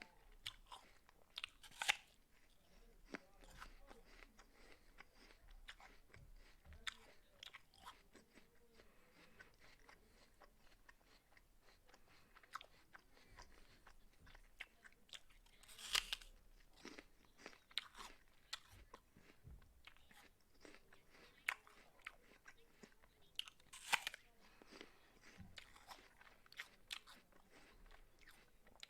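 A person biting into and chewing a raw apple: close, crisp crunching with many small wet clicks. Louder bites come about two seconds in, near the middle, and about two thirds of the way through.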